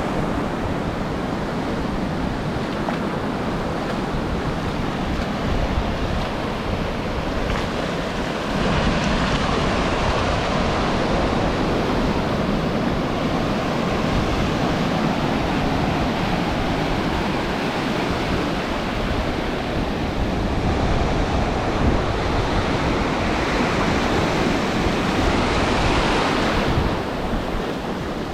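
Ocean surf washing on a beach, a continuous rush that swells louder about nine seconds in and again near the end, with wind buffeting the camera's microphone.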